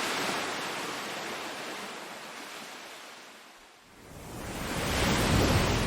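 Sea waves surging in and washing back, in two swells of surf; the second comes about four seconds in and carries a deeper rumble.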